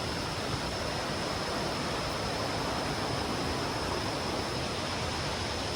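Steady rush of flowing water from a jungle stream below a waterfall, an even hiss with a thin, steady high tone above it.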